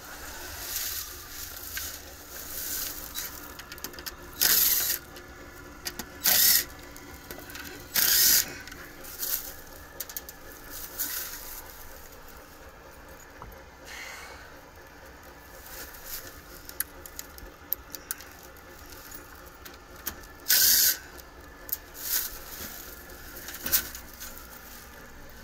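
Hands working on an open packaged HVAC unit: several short scraping, rustling noises and scattered clicks, over a steady low hum.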